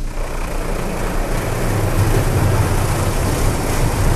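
High-pressure water jets of a touchless car wash blasting the car, heard from inside the cabin: a dense spray noise that starts abruptly, with a heavy low rumble building about a second and a half in.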